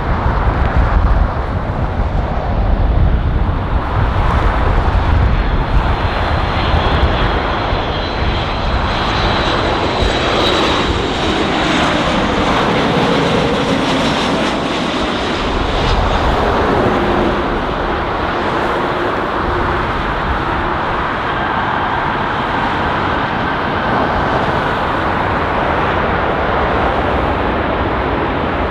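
Boeing 737-8 MAX's CFM LEAP-1B turbofan engines passing close on landing, a loud, steady jet rumble. Its tones glide down in pitch as the plane goes by, about ten to eighteen seconds in.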